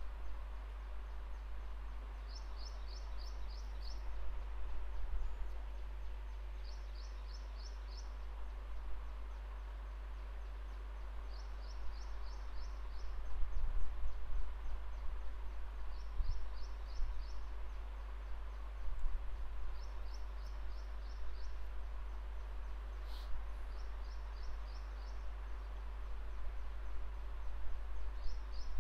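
A bird chirping outside, in quick runs of about five or six high notes that come back every four seconds or so, over a steady low electrical hum. A few soft low bumps fall around the middle.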